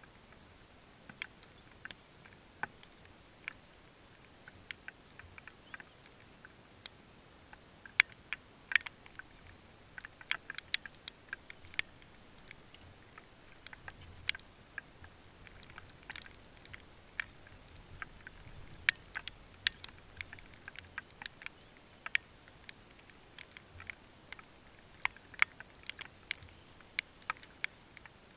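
Raindrops tapping irregularly on the camera or rain gear, many sharp ticks over a faint steady hiss, busiest in the middle.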